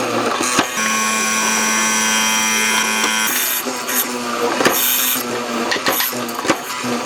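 An electric power tool runs with a steady whine for about two and a half seconds, then stops. Sharp knocks and taps of work on wood follow.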